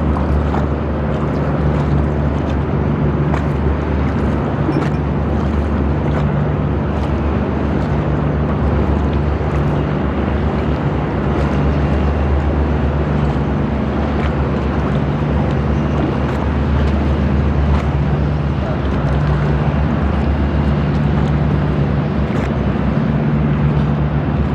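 Boat engine running with a steady low drone that swells and eases every few seconds, over a constant noise of water and wind.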